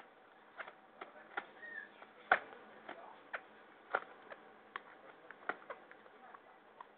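Irregular sharp clicks and taps from hand-feeding an African grey parrot chick: beak knocking against the feeding utensil, about a dozen, the loudest a little past two seconds in, with a short faint chirp from the chick early on.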